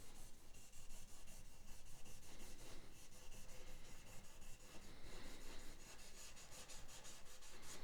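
Cloth rag rubbing quickly back and forth along a guitar's rosewood-type fretboard, wiping off excess fretboard oil.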